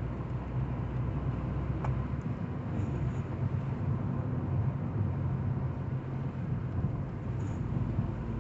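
Ford Fiesta running with a rattle, over a steady engine hum. There is one sharp click about two seconds in.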